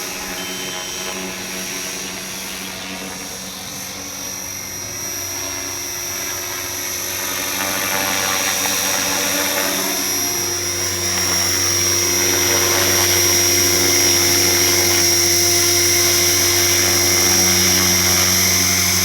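Align T-Rex 470LP electric RC helicopter coming in to land, its rotor and motor running with a steady high whine over a low hum. It grows louder from about eight seconds in, then holds steady.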